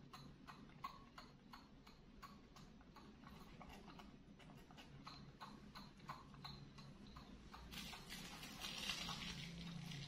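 Faint, quick clicks of a baby monkey sucking milk through a straw from a small bottle, about three or four sucks a second, with a louder hissing slurp near the end.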